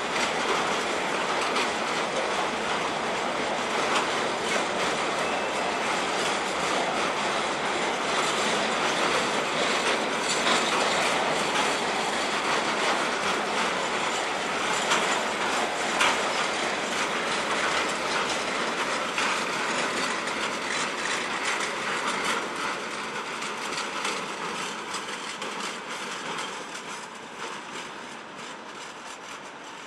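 Freight train of tank wagons rolling past, its wheels clattering and clicking over the rail joints in a steady rush. The sound fades gradually over the last several seconds.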